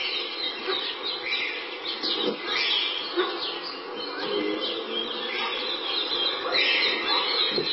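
Woodland birds chirping and singing, many short calls overlapping.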